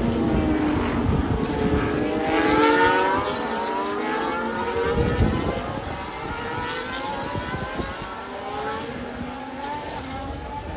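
Formula 1 cars' 1.6-litre V6 turbo-hybrid engines accelerating past, several engine notes climbing in pitch over a few seconds and overlapping, then fading a little.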